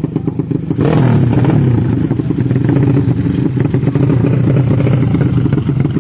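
Drag-racing motorcycle engines running loud. About a second in there is a sudden jump in level as one is revved, and its pitch then falls away.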